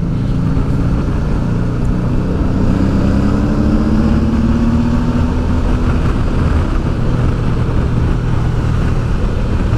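Honda Deauville V-twin motorcycle engine pulling hard under acceleration to overtake. Its pitch rises over the first few seconds, then holds steady.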